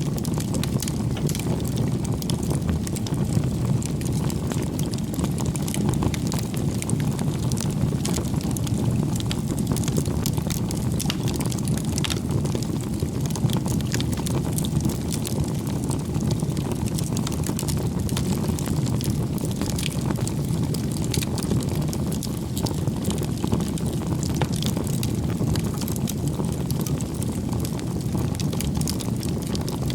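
Bonfire of firewood burning: a steady low rumble of flames with frequent small sharp crackles and pops.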